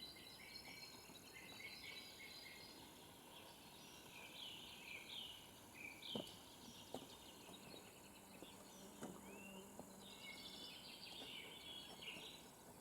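Faint songbird chirps and short falling calls, repeated through the quiet, with a few soft knocks near the middle.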